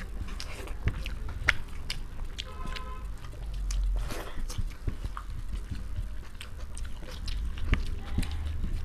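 Close-miked chewing and biting of rice pulao and boiled egg, full of small wet mouth clicks and smacks scattered irregularly throughout.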